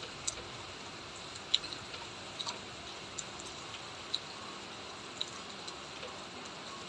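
Rain falling: a steady soft hiss with scattered, irregular drops ticking sharply on nearby surfaces, the loudest about a second and a half in.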